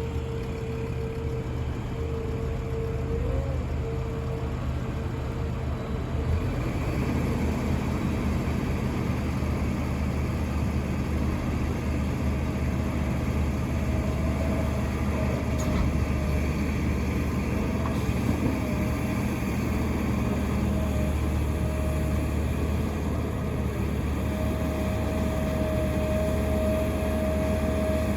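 Heavy diesel machinery running steadily: the engines of a Doosan DX380 excavator and a Scania dump truck during loading. A thin whine rides over the low drone, stepping up in pitch about six seconds in as the sound grows a little louder.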